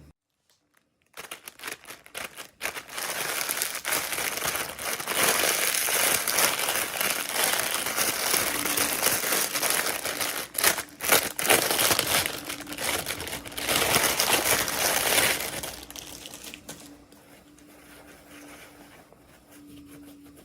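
Packaging wrapper crinkling and rustling as it is handled and opened, with dense crackles starting about a second in, then dying down to lighter handling noise for the last few seconds.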